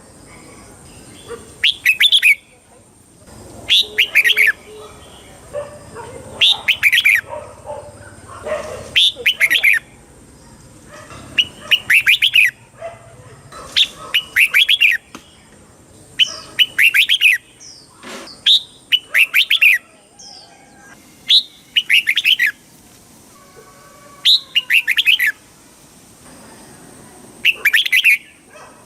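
Red-whiskered bulbul singing short, bright, quick phrases, one about every two to three seconds, with fainter chatter between them.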